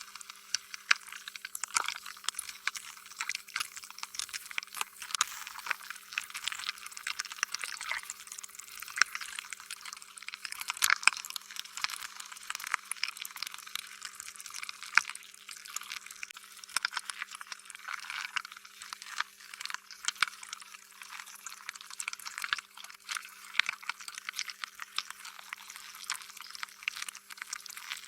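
Slime being squished and worked, giving a continuous run of small wet, sticky clicks and pops.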